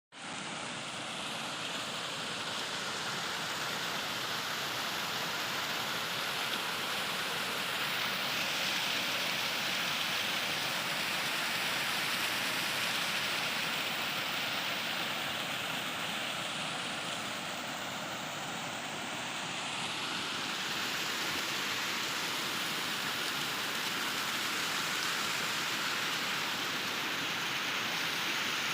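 Heavy rain falling steadily, a dense even hiss that swells and eases a little but never stops.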